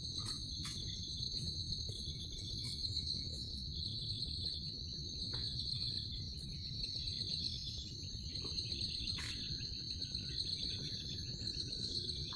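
Insects, crickets or cicadas, keeping up a steady high-pitched chirring, over a low rumble with a few scattered clicks.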